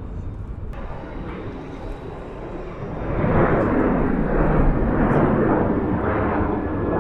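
Jet airliner engines rumbling as an aircraft moves at the airport, swelling louder about three seconds in.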